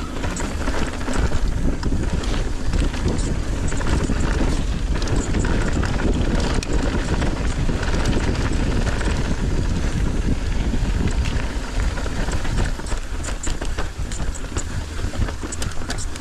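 Wind buffeting a helmet or body camera microphone on a mountain bike in motion, a steady heavy rumble with scattered small rattling clicks from the bike and trail.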